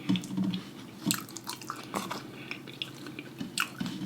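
Close-miked wet chewing and lip-smacking: soft food being eaten with scattered sharp, wet mouth clicks.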